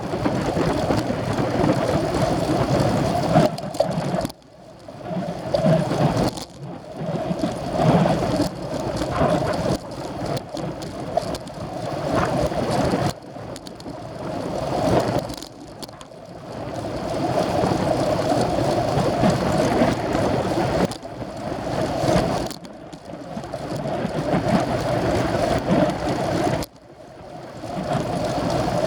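Wind rushing over the microphone of a camera riding along on a racing bicycle, mixed with tyre and road noise. The noise drops away suddenly several times and then builds back up.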